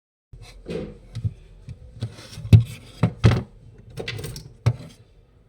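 A series of about nine irregular knocks and thuds with rustling between them, the loudest about two and a half and three and a quarter seconds in.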